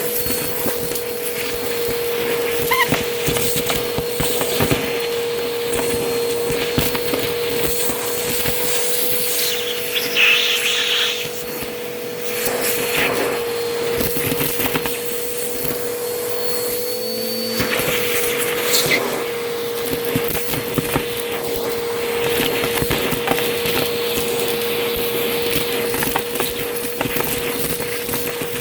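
Vacuum cleaner running steadily with a constant motor whine, crunching and crackling as debris is sucked up, with many short clicks throughout.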